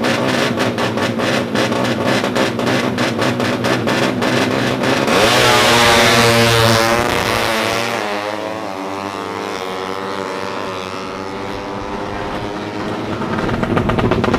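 A tuned 200cc underbone drag motorcycle runs with rapid, even pulsing at first. About five seconds in it launches loudly, and its pitch climbs and drops back several times through gear changes as it pulls away and grows quieter.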